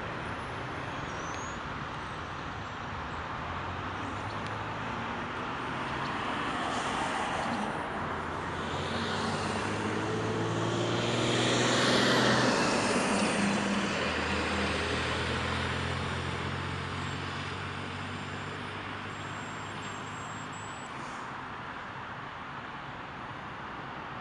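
Road traffic with one motor vehicle passing close by, loudest about halfway through. Its low engine note drops in pitch as it passes and then fades.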